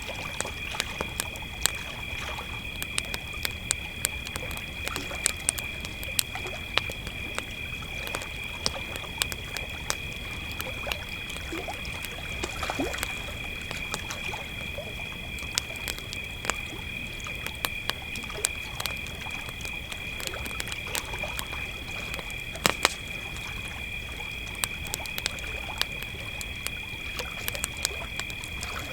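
Crickets chirring steadily in a dense chorus at two high pitches, over a wood campfire crackling with frequent sharp pops, one louder pop about three quarters of the way through.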